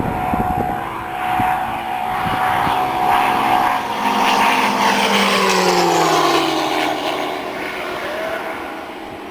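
A fast radio-controlled model aircraft makes a high-speed pass. Its engine note grows louder, then drops steadily in pitch from about four seconds in as it flies past, and fades away.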